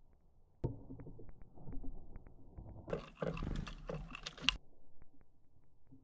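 Slowed-down, deepened sound of great tits arriving at a wooden seed feeder: a low rumble with scattered clicks that starts suddenly about half a second in, and a louder scratchy, clattering stretch from about three to four and a half seconds.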